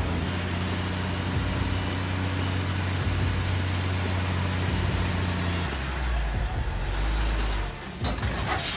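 Heavy truck engine running with a steady drone; its pitch drops about six seconds in, and a few short sharp noises come near the end.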